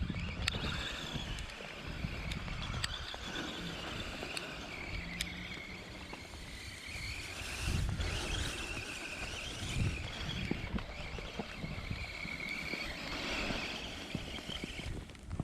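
Small brushed 390 electric motor of an RC truck whining, its pitch rising and falling with the throttle as it pushes through snow. It is working hard and running hot.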